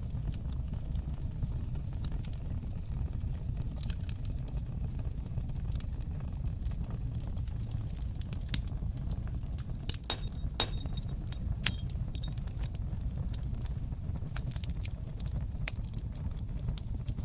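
Fire burning in a fireplace: a steady low rumble of flames with frequent sharp crackles and pops, a few louder pops a little past the middle and the sharpest about two-thirds of the way through.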